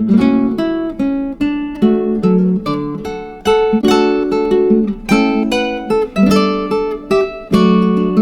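Background music: an acoustic guitar picking and strumming a steady run of notes.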